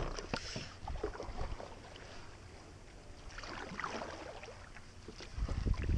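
A canoe being worked off the shore in shallow water: several light knocks in the first second or so, water stirring about three to four seconds in, and a low rumble of wind on the microphone near the end.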